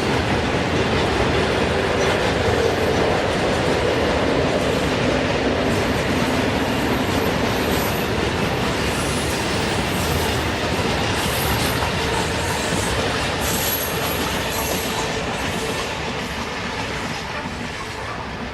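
A train passing close by, its wheels rolling over the rail joints with a clickety-clack, and brief high-pitched wheel squeals in the middle part. The sound fades over the last few seconds as the train draws away.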